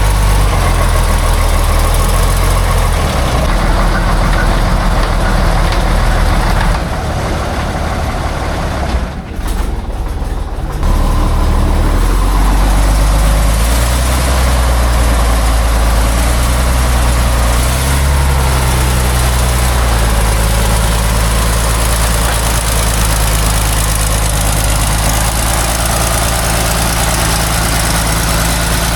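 Heavy truck diesel engine running steadily at a low pitch. It drops away briefly about nine seconds in, then comes back. Its pitch shifts for a moment around eighteen seconds.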